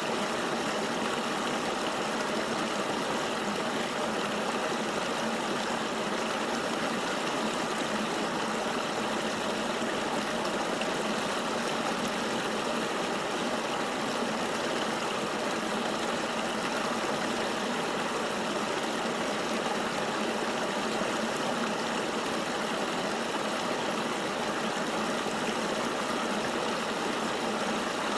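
Steady rush of flowing river water, an even hiss without single splashes or changes.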